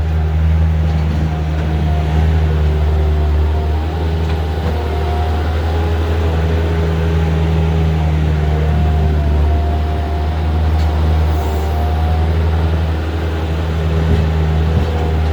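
Bobcat 763 skid-steer loader's diesel engine running steadily, a loud low drone with a higher tone above it that wavers slightly in pitch.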